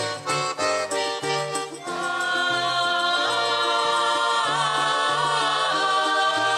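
Russian folk ensemble performing a song with a steady bass beat: a busy instrumental passage, then from about two seconds in a long chord held by many voices.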